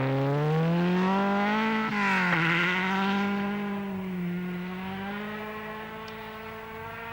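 Rally car engine accelerating hard, its pitch climbing for about two seconds, dropping sharply at an upshift, then pulling on at steady revs as it moves away and fades.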